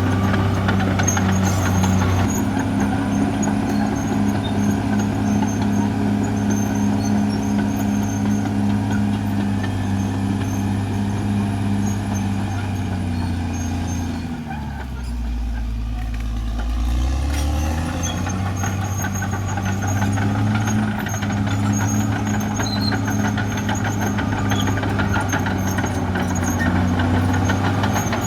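Caterpillar D6R XL bulldozer's diesel engine working steadily. About halfway through, its pitch drops sharply toward idle, then climbs back up to working speed a few seconds later.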